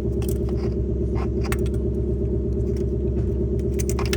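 Steady low mechanical hum of a machine running in the background, with scattered light metallic clicks and taps from handling hose clamp pliers on a radiator hose clamp.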